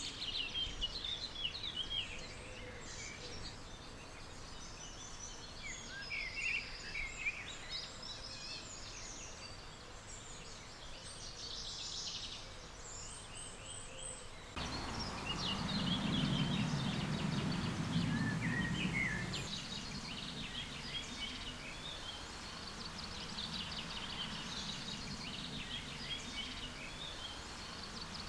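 Several songbirds chirping and singing over steady outdoor background noise. The background changes abruptly about halfway through, and a low rumble rises under the birdsong for a few seconds after that.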